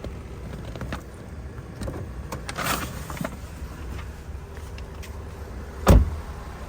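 Idling engine of a 2019 Jeep Renegade running steadily underneath light clicks and handling noises as the hood is opened, with one loud, sharp thump near the end.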